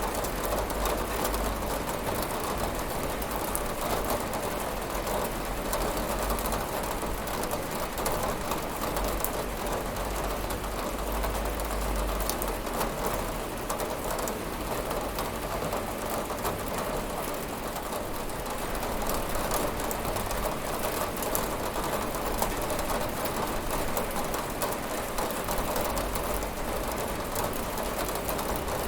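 Steady rain falling on a window glass: a dense, even hiss of many small drop impacts, with a low rumble underneath that swells and fades every few seconds.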